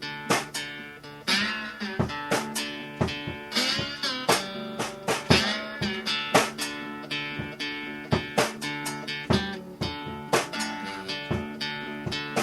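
Acoustic guitar music, plucked and strummed notes in a quick, steady rhythm.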